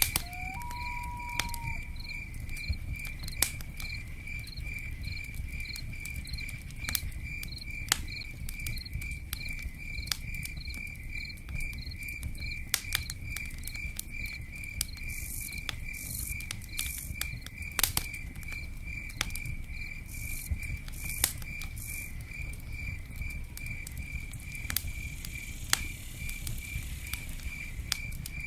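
A cricket chirps steadily, a high pulse about twice a second. Scattered sharp crackles and taps sit over a low, steady rumble.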